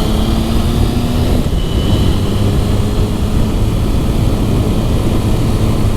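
Motorcycle engine running at a steady speed under heavy wind rush on the helmet-cam microphone.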